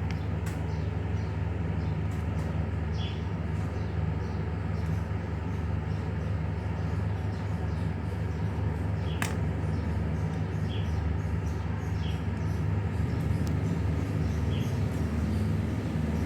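A steady low hum, with a few light clicks over it and one sharper click about nine seconds in.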